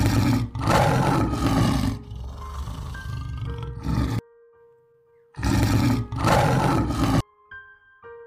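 Male lion roaring in two loud bursts, the first about four seconds long and the second under two seconds, each cut off abruptly, over soft piano music.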